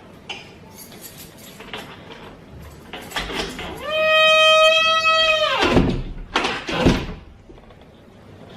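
A long, loud, high squeak of something rubbing or sliding that holds one pitch for about two seconds, then slides sharply down and stops. A shorter squeak follows about a second later, with a few light knocks before.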